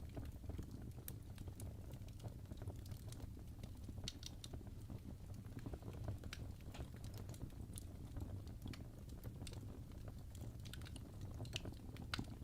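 Wood fire burning in a fireplace: a low steady rumble with irregular sharp crackles and pops from the burning logs.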